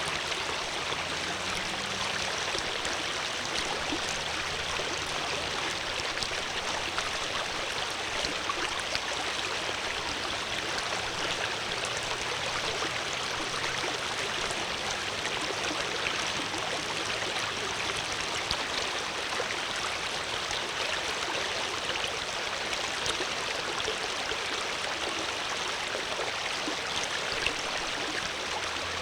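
Water flowing steadily: an even, unbroken rush of running water.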